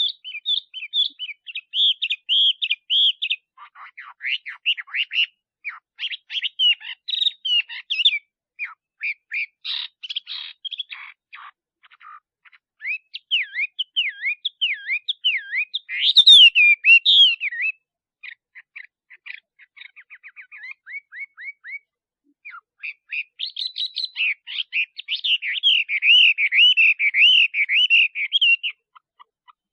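Male Chinese hwamei singing a long, varied song of loud, rapid whistled notes and trills in phrases, with a brief pause about twelve seconds in and a run of fast evenly repeated notes past the middle.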